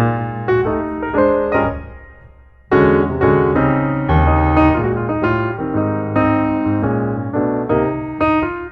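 Piano music: chords and melody notes struck and left to ring. The playing fades away about two seconds in, then resumes with full chords after a short gap.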